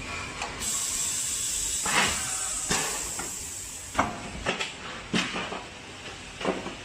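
Automated sheet-metal shell forming line for electric water heaters running: a steady hiss with a thin high whine over the first half, and sharp metallic knocks and clunks at irregular intervals.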